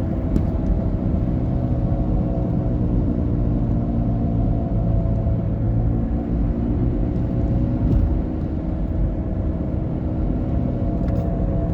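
Saturn Vue driving at speed with a steady drone and road rumble, heard on the passenger side. It sounds awful, and the owner traced it to a failing wheel bearing assembly.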